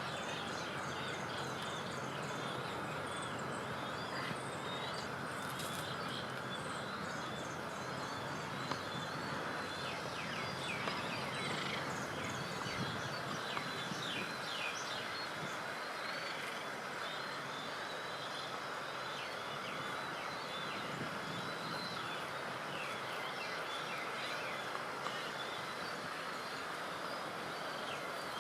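Many birds calling at once, a constant chatter of short chirping calls over a steady rushing background noise.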